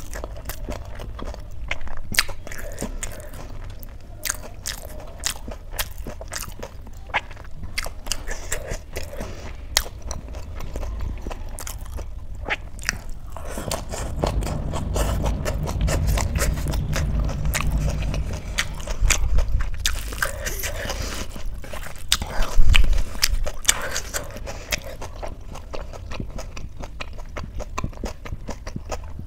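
Close-miked eating sounds: crunchy chewing and wet mouth clicks as rice mixed with mashed potato and shredded raw salad vegetables is bitten and chewed, with one louder bite about two-thirds of the way through.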